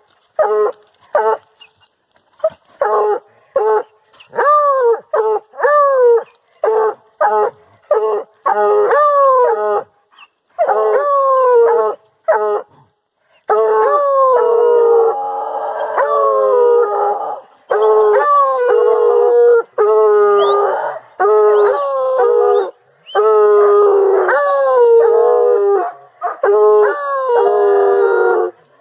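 Two Americano hunting hounds baying at bay in quick repeated calls, each call falling in pitch. After a short pause about twelve seconds in, the two voices overlap. This is the bay hounds give when they hold cornered game.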